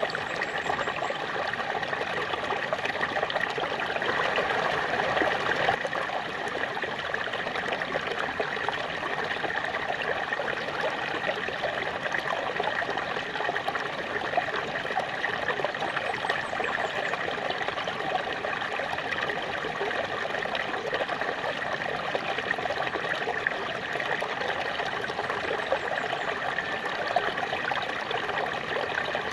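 Small waterfall: water spilling and splashing steadily, a dense trickling and burbling rush with no pauses.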